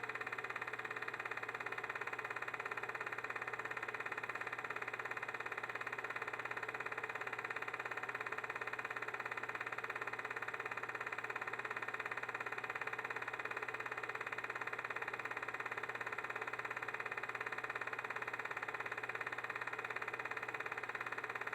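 Film projector running: a steady mechanical whir with a fast, even flutter.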